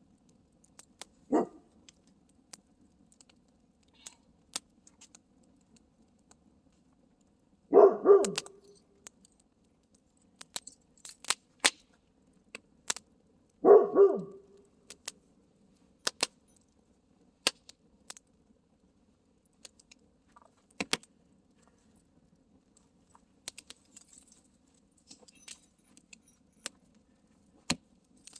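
Wood campfire crackling with sharp pops scattered throughout. A dog barks once about a second in, then twice in quick succession around eight seconds and again around fourteen seconds.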